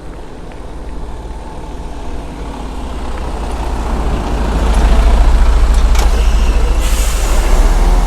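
Heavy truck's engine running close by, its low rumble growing louder over the second half, with a brief hiss near the end.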